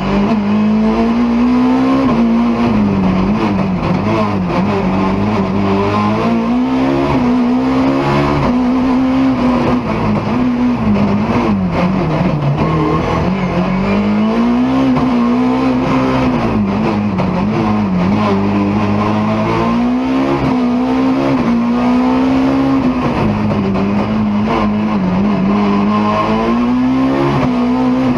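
BMW E30 M3 rally car's four-cylinder engine under hard driving, revs climbing and dropping again and again as it accelerates, shifts and brakes through a stage.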